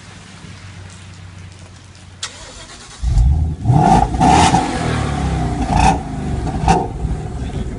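Maserati GranTurismo V8 idling, then from about three seconds in revved in a run of quick, loud throttle blips, about four sharp peaks, heard from outside the car.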